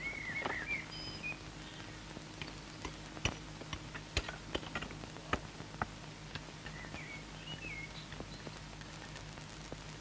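Faint bird chirps, a few short warbling notes at the start and again about seven seconds in, with scattered sharp clicks and taps over a steady low hum.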